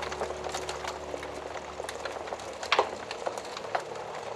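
Wood fire crackling, with irregular sharp pops and snaps, one louder pop a little past halfway.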